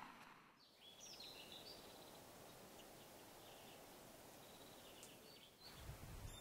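Faint birdsong: short, repeated bird calls over a quiet background hiss. Near the end a low rumble comes in.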